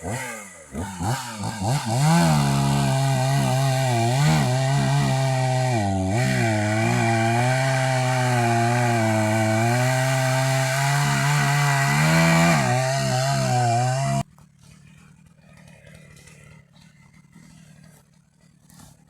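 Two-stroke chainsaw revving up and down quickly, then running at high revs with small dips in pitch as it cuts through wood. It stops abruptly about fourteen seconds in, leaving only faint background sound.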